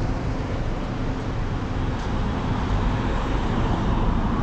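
Steady motor-vehicle and road-traffic noise: an unbroken low rumble.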